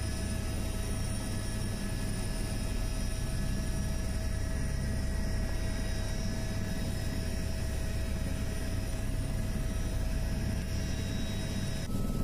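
Helicopter in flight, heard from inside the cabin: a steady low drone of engine and rotor with a few constant whining tones over it. The sound shifts abruptly near the end.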